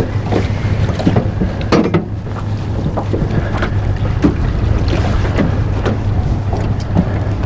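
Wind buffeting the microphone as a steady low rumble, with scattered small knocks and water splashes from the boat and fishing gear.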